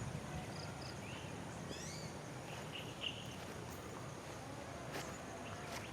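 Small birds chirping: a few short, high chirps falling in pitch, spaced a second or more apart, over a low steady background rumble.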